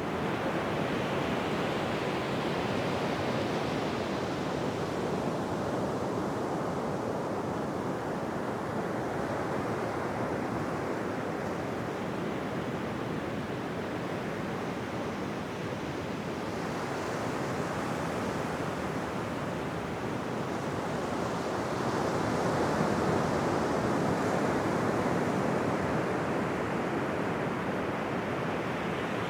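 Ocean surf: a continuous rush of waves breaking and washing onto a beach, slowly swelling and ebbing, louder about three quarters of the way through.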